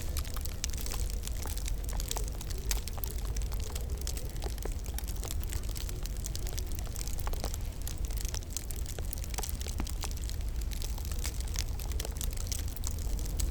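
Wood fire crackling in a fireplace, with many irregular sharp pops and snaps over a steady low rumble.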